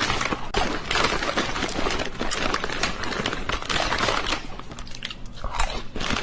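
Close-up chewing, a dense continuous run of crunches and crackles with a brief lull about five seconds in.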